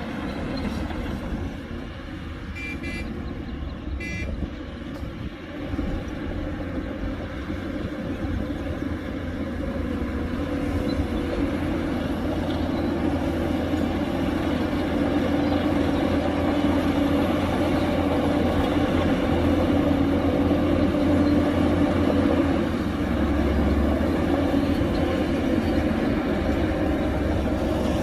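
Diesel engines of heavy earthmoving machinery, a bulldozer and dump trucks, running steadily and growing louder after about ten seconds. Two short horn toots come about three and four seconds in.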